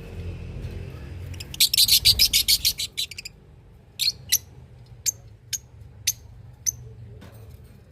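Small birds chirping: a rapid run of sharp, high chirps for about two seconds, then single chirps about every half second.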